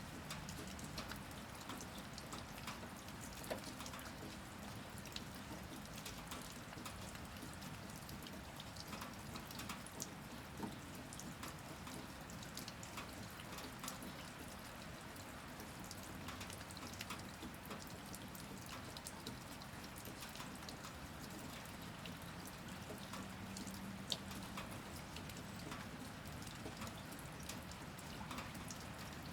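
Steady rain falling, an even hiss with many separate drops tapping and dripping close by.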